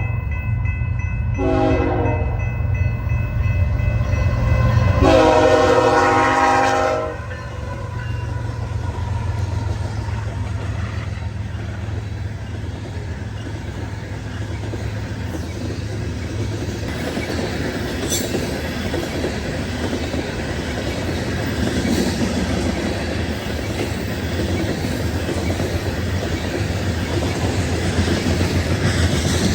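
Diesel freight locomotive passing close with a heavy rumble, its air horn sounding a short blast and then a longer one. Then the loaded grain cars roll by in a steady rumble, with wheels clicking over rail joints.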